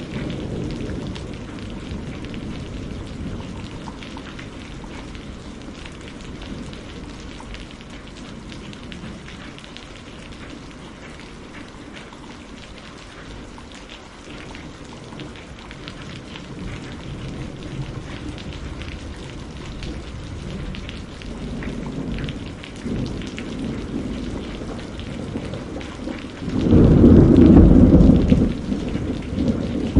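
Steady rain falling, with a loud rumble of thunder rolling in near the end and swelling again just before it stops.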